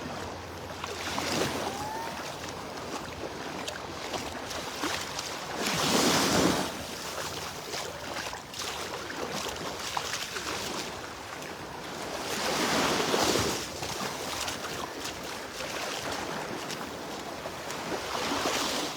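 Small surf breaking on a sandy beach: a steady wash of water with waves swelling up and falling away every several seconds, loudest twice, about a third and two-thirds of the way in.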